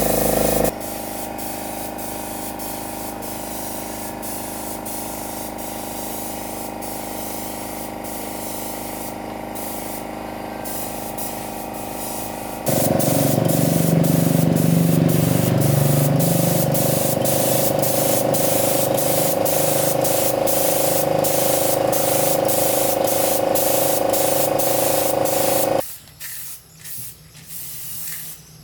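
Compressed-air spray gun hissing steadily over the steady hum of a running motor. It gets louder about halfway through and cuts off sharply near the end.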